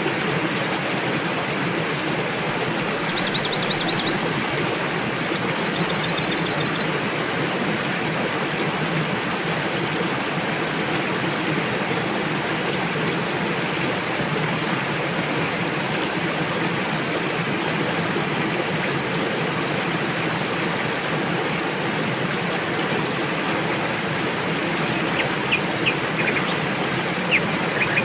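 Rushing river water flowing with a steady roar. A small bird gives a rapid high trill twice, about three and six seconds in, and a few short chirps near the end.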